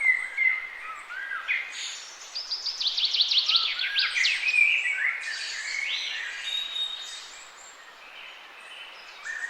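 Several birds calling over a steady background hiss of forest ambience: assorted whistled and gliding notes, with a quick series of sharp, downward-sweeping notes about two to four seconds in.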